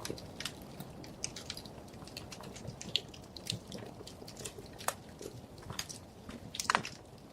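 Wood fire crackling: irregular small pops and snaps over a soft low hiss, with a louder cluster of pops near the end.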